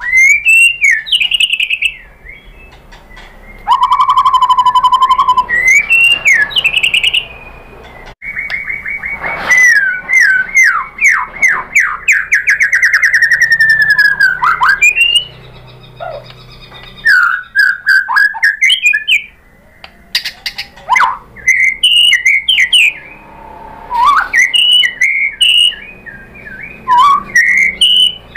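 White-rumped shama (murai batu) singing loud, varied phrases in bursts with short pauses: clear whistled notes, a long fast trill from about eight seconds in, then quick clusters of sharp chattering notes.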